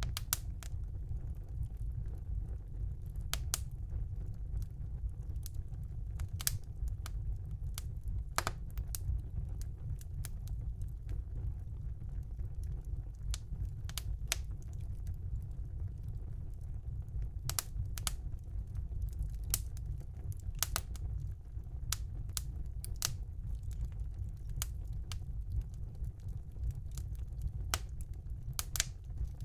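Wood fire burning in a fireplace: a steady low rumble of the flames with sharp, irregular crackles and pops every second or two.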